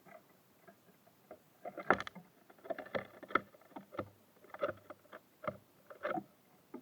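Birds at a wooden feeder: a run of irregular knocks and taps, the loudest about two seconds in, then one or two a second, as of birds landing on the feeder and pecking at seeds.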